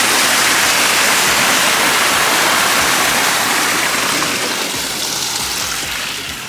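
Loud, steady rush of running water, like a stream or small waterfall, easing off about four seconds in.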